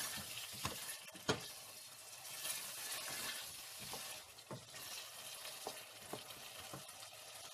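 Potato pieces frying in spiced onion-tomato masala in a stainless steel pot, sizzling steadily while being stirred, with a spoon knocking and scraping against the pot now and then; the loudest knock comes just over a second in. The potatoes are being bhuna-fried in the masala.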